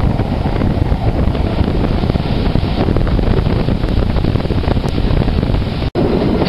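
Wind buffeting the microphone at the open window of a moving passenger train, over the steady rumble of the carriage running along the track. The sound drops out for an instant about six seconds in.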